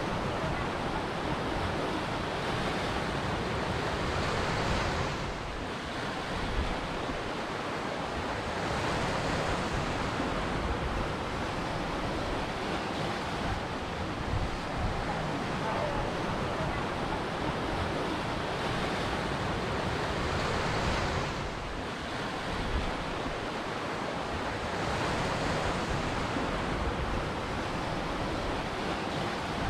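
Ocean surf breaking and washing on a shore: a continuous rushing wash that swells and eases, dipping briefly twice.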